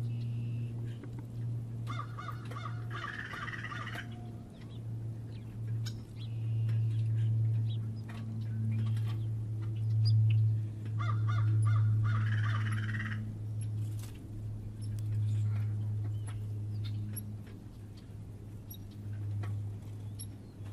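Harsh bird calls at a feeder, in two bouts, one about two seconds in and one about eleven seconds in, with short ticks between them, over a steady low hum.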